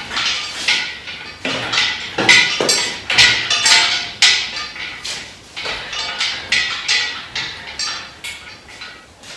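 Irregular metallic clanks and knocks, a few every second, some ringing briefly, loudest in the middle.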